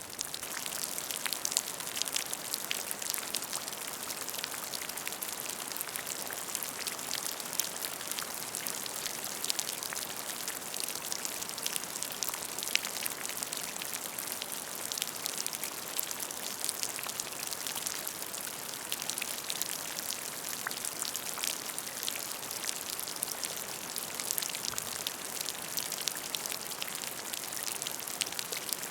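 Steady rain falling on a puddle of water, with many small individual drop splashes over an even hiss.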